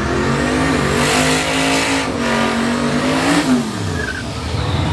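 A big-wheel donk race car's engine revving hard under acceleration on a drag run. The pitch climbs, dips briefly about two seconds in, climbs again, then drops away steeply near the four-second mark.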